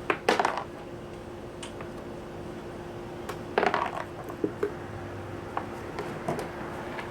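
Clinks and clatter of parts being handled while the scooter's inner storage compartment is taken out. There is a burst of sharp knocks about a third of a second in, another cluster near the four-second mark, and a few lighter taps after that.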